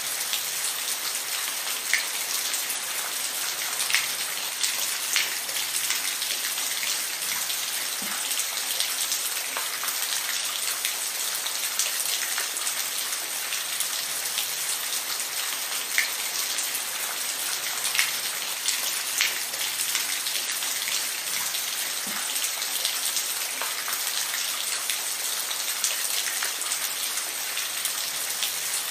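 Steady rainfall, an even hiss of rain with scattered individual drops ticking sharply against a surface.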